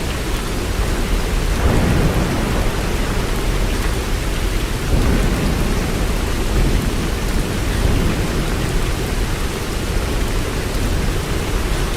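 Steady heavy rain falling, an even hiss with a deep continuous rumble underneath.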